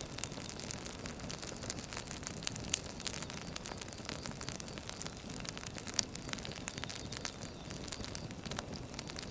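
Firewood burning, crackling with many small irregular snaps over a steady low hiss, with a louder pop about three seconds in and another about six seconds in.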